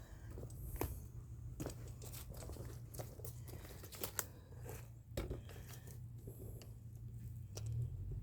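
Scattered rustling, crinkling and light knocks from handling potted plants and their foliage, over a steady low hum.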